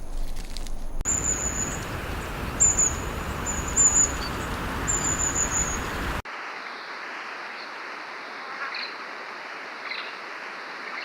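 Outdoor nature ambience spliced from separate recordings: a steady hiss with a series of short, high chirps, cutting abruptly about six seconds in to a quieter ambience with a few faint calls.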